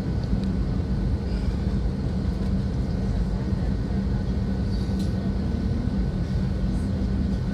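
Airliner cabin noise inside an Airbus A320 on the ground before takeoff: a steady low rumble from the engines and airframe, with a faint steady whine above it.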